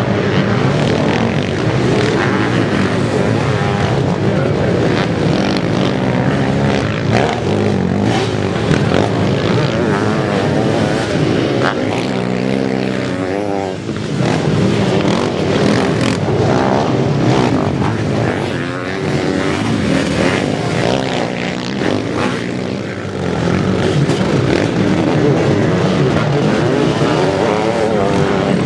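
Sidecar motocross racing outfits at speed: several motorcycle engines running hard, their pitch rising and falling as they accelerate and back off. A clear rising and falling rev sweep comes about twelve seconds in.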